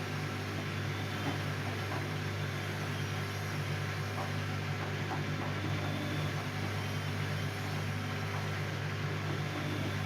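Siemens Siwamat C10 washing machine running with a steady low hum that does not change.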